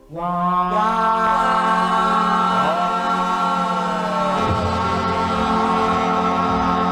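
1957 doo-wop vocal group singing a sustained wordless harmony chord after a brief break right at the start. Low notes join underneath about four and a half seconds in.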